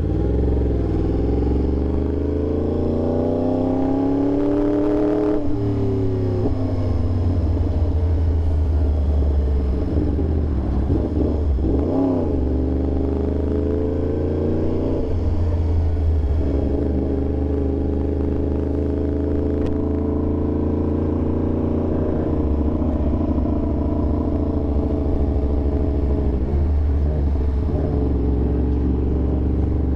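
Yamaha R1 sport bike's inline-four engine under way. Its revs climb for a few seconds and drop sharply about five seconds in with a gear change, fall and rise again around twelve to fifteen seconds in, then hold fairly steady.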